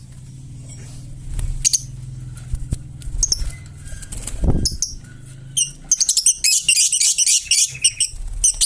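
Pet parrot giving short, high-pitched chirps and squeaks, scattered at first, then in a quick, dense run over the last few seconds.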